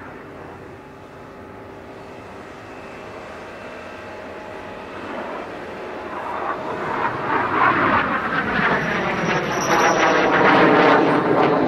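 BAe Hawk Mk 51 jet trainer's Rolls-Royce Turbomeca Adour turbofan flying past, faint at first and then swelling loud from about halfway through, its rushing sound sweeping in pitch as the jet closes in.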